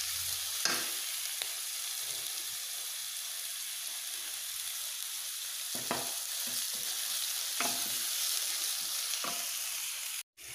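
Sliced shallots and dried red chillies sizzling in hot coconut oil in a stainless steel pan as they are sautéed, stirred with a wooden spoon that knocks and scrapes against the pan a few times. The sound breaks off for a moment near the end.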